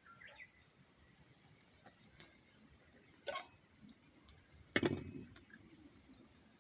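A few faint clicks and two sharp knocks, about three seconds and five seconds in; the second is the louder and rings on briefly.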